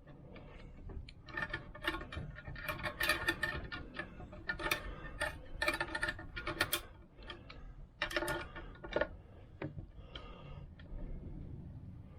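Pliers and a steel kickstart spring clicking, scraping and ringing against a Vespa PX engine side case in a string of irregular metallic clinks, as the spring is wound round to engage on the kickstart shaft. The clinks are densest between about two and seven seconds in, with another cluster at about eight seconds.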